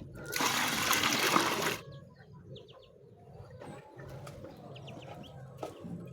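Liquid poured out with a loud splash for about a second and a half, then a few short, faint bird chirps.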